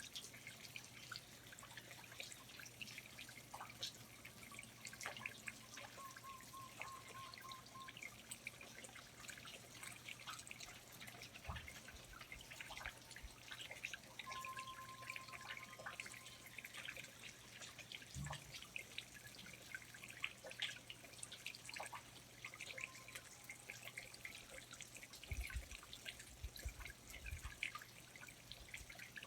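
Quiet rainforest ambience of irregular water drips and patters, with a few faint short steady tones now and then, a steady low hum underneath and a few low thumps in the second half.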